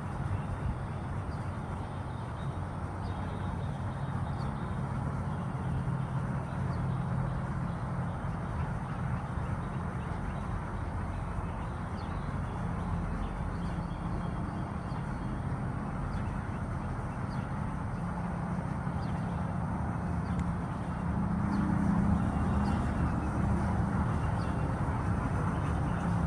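Steady outdoor background rumble, even and unbroken, growing a little louder near the end.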